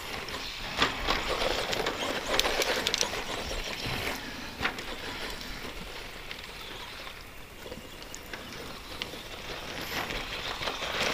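ECX Circuit RC stadium truck running on a rough dirt track: its stock brushed electric motor and tyres, with scattered sharp knocks and clatter as it bounces over bumps. Louder for the first four seconds or so, then quieter.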